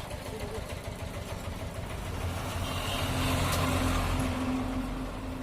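An engine running with a steady low hum, growing louder about two seconds in and easing off near the end.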